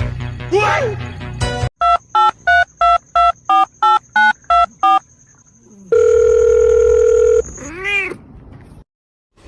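Music with a short cat meow, then about ten quick electronic beeps, roughly three a second, like a phone keypad being dialled. A long steady tone follows, then another short meow.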